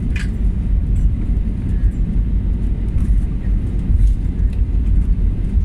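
Steady deep rumble inside the cabin of an Airbus A320 as it rolls on the ground just after landing. The noise comes from the engines and the undercarriage.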